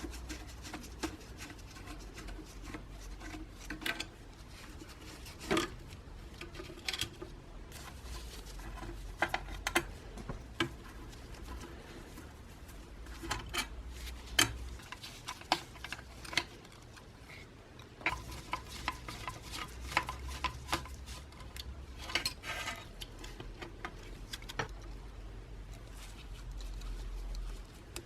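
Irregular clicks, taps and clinks of small metal parts and hand tools being handled on a workbench, over a low steady rumble.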